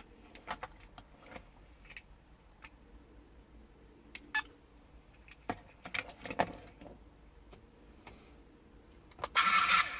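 Scattered clicks and taps of handling a small plastic toy tank, then near the end its small electric drive motor switches on with a loud, steady whine.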